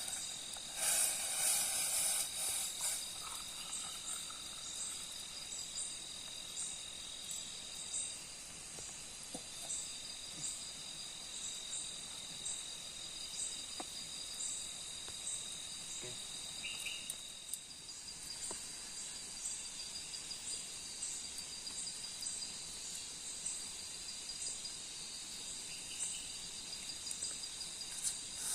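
Forest insects such as crickets calling: steady high trills with a higher chirp pulsing a little faster than once a second, and a louder noisy stretch in the first few seconds.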